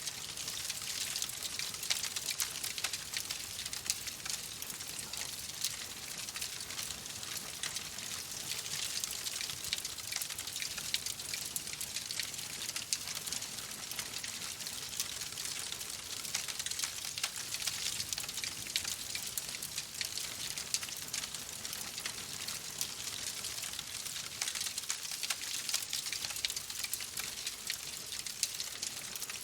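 Wood fire crackling in a fireplace: a steady hiss with many small sharp pops and snaps throughout.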